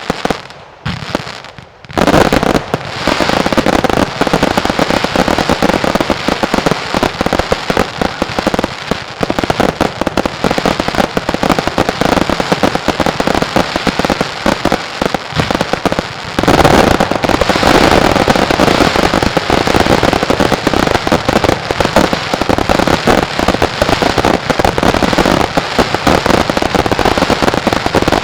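Mascletà fireworks: a dense barrage of firecrackers and salute reports going off in rapid, overlapping succession. After a brief lull about a second in, the bangs run on without a break and grow louder a little past halfway.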